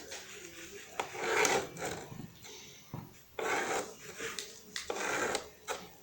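Scribbling on paper: several separate rubbing strokes, each under a second long.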